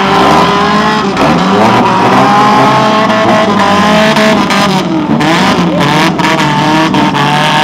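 Demolition derby car engines revving loudly, their pitch rising and falling as the cars spin and manoeuvre on dirt, with a few sharp knocks about two-thirds of the way through.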